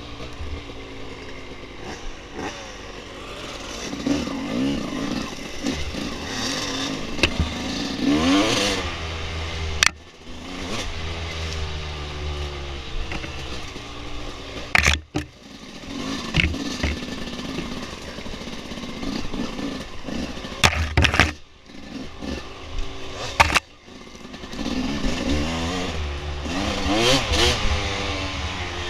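Dirt bike engine revving up and down repeatedly as it is ridden over a trail, with several sharp knocks along the way.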